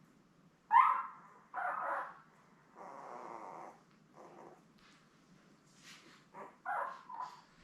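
Ten-day-old Labrador retriever puppies giving short squeals and squawks, a string of separate cries with the loudest a little under a second in. They are hungry, crying to be fed.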